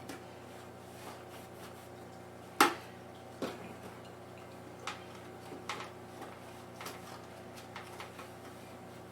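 Hard plastic and metal parts of a desktop PC being handled: one sharp knock about two and a half seconds in, then a string of lighter clicks and clinks, over a steady low hum.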